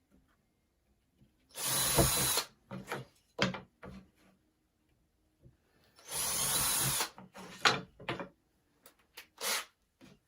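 Power drill driving screws into wood in two runs of about a second each, with a steady motor whine. Short knocks and clicks of parts being handled fall between and after the runs.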